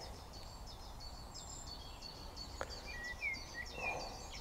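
Small birds chirping rapidly and repeatedly in a high pitch, with a few lower chirps about three seconds in, over a steady low background rumble. A single faint click comes about two and a half seconds in.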